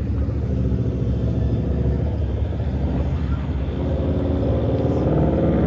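A car engine idling with a low, uneven rumble, its pitch lifting slightly near the end.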